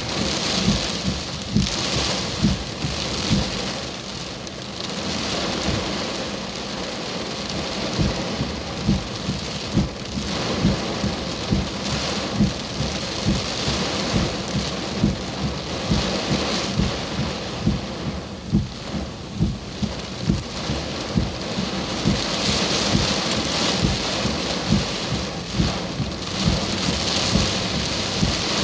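Heavy thunderstorm downpour: dense steady rain, with frequent dull knocks of large drops striking close to the microphone, one or two a second.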